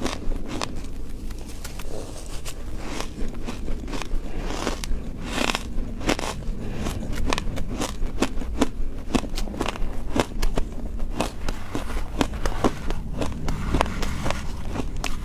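Ice being bitten and chewed close to the microphone: a dense run of sharp, irregular crunches and cracks, several a second.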